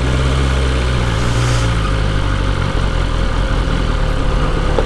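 BMW S1000RR's inline-four engine running at low, steady revs as the bike is ridden slowly, with road and wind noise.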